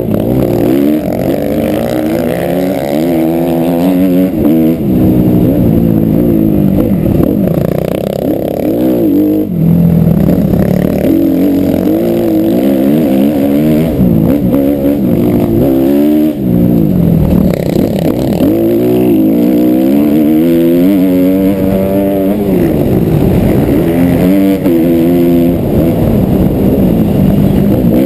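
Suzuki RM-Z250 four-stroke single-cylinder motocross engine being ridden hard, revving up and down over and over. The pitch climbs and drops every second or two as the throttle is opened and shut.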